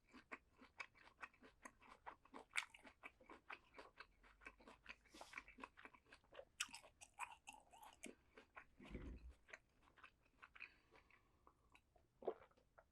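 Close-miked chewing and crunching of crisp raw vegetables: a quick run of small crunches that thins out after about ten seconds, with one low thump about nine seconds in.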